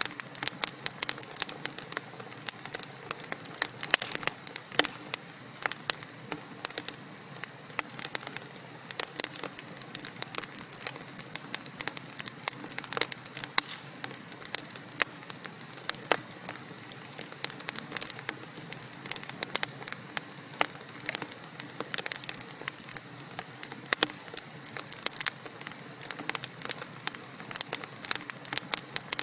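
Wood fire burning in a fireplace: logs crackling and popping with dense, irregular sharp snaps over a steady hiss of flames.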